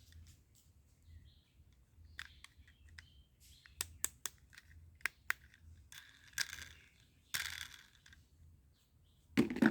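Small plastic toy vehicles being handled, giving scattered light clicks and knocks with a couple of brief rustling scrapes, then a louder burst near the end.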